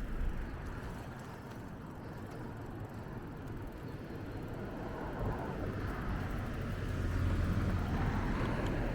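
A road vehicle passing close by, its engine and tyre noise swelling over the last few seconds and easing off at the end.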